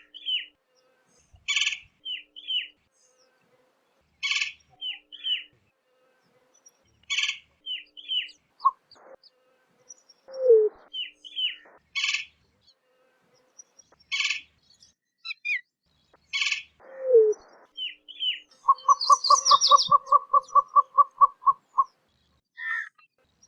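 Greater roadrunner calling: short high chirps repeat every few seconds, two low falling notes come about ten and seventeen seconds in, and near the end there is a rapid rattle of about five pulses a second lasting about three seconds.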